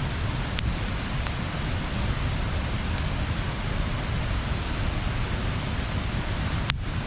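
Wood bonfire burning with a steady rushing hiss, broken by a few sharp crackling pops, the clearest about half a second in and near the end.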